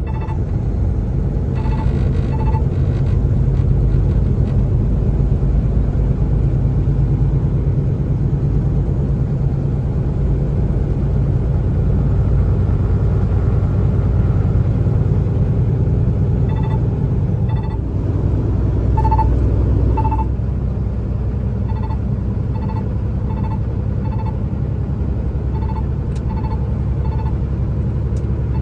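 Steady low rumble of a Kenworth T680 semi-truck's engine and road noise heard inside the cab while driving. Runs of short, regular ticks sound in the first couple of seconds and again from about two-thirds of the way in.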